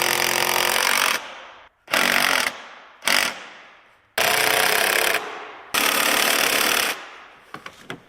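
A handheld power tool run in five short bursts, each from about half a second to a second and a half long and each trailing off afterwards.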